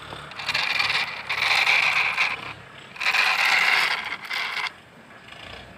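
A toy truck being rolled along, its plastic wheels and gears rattling in two runs of about two seconds each.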